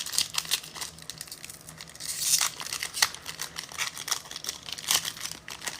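Crinkling and rustling of plastic packaging and trading cards being handled, with many small clicks and rustles.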